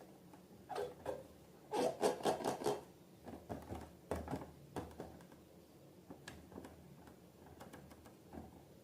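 Slime being squeezed and worked by hand, giving irregular wet clicks and squelches. There is a quick run of them about two seconds in, then scattered smaller ones.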